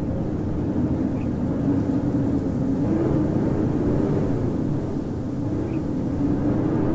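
Howling wind: a steady low rumble with a moaning tone that rises and falls slowly.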